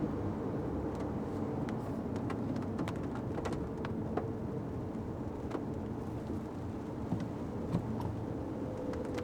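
Fiat 500X driving on wet roads in the rain: a steady rumble of engine and tyres, with scattered light taps of raindrops on the car.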